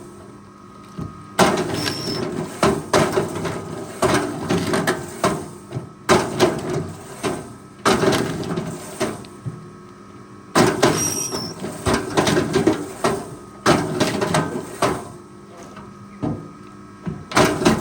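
Forestry machine working: a steady low engine tone under repeated loud rattling clunks and scraping bursts every second or two, with two brief high squeals.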